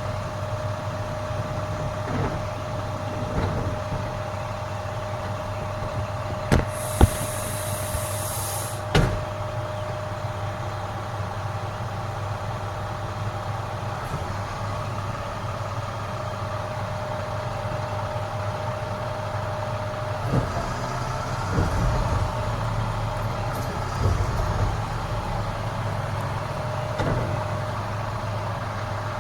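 Garbage truck engine running steadily with a constant whine over it, a few sharp clunks and a burst of hissing air for about two seconds a quarter of the way in. Past the middle the engine works harder for a few seconds and the whine drops out.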